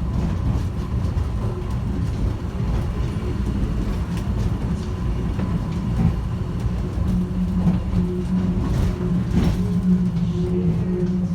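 Airport terminal train car travelling at speed, heard from inside: a steady low rumble of the running train. About seven seconds in, a steady motor hum joins it, along with a few light clicks.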